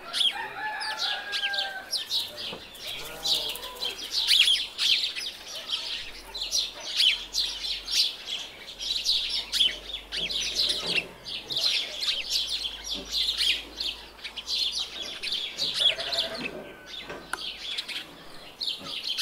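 Small birds chirping in a dense, continuous high twitter, with a few lower animal calls now and then, near the start and again about three-quarters through.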